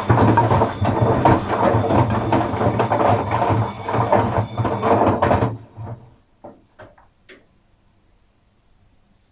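Atlant front-loading washing machine running its drum, a low motor hum under dense churning and knocking. It stops abruptly about five and a half seconds in, followed by a few separate clicks.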